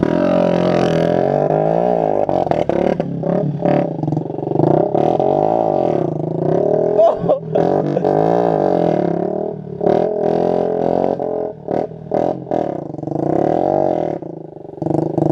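Motorcycle engine running hard during a wheelie, a droning note whose revs rise and fall over and over, with a few short drops in revs in the second half.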